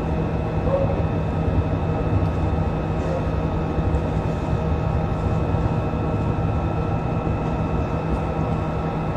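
Steady, unchanging rumbling noise with several constant hum tones running through it.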